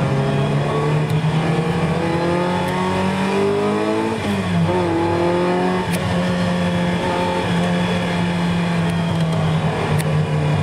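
Ferrari 328's V8 engine heard from inside the cabin, pulling with the revs rising, then dropping in pitch about four seconds in and running at steady revs for the rest.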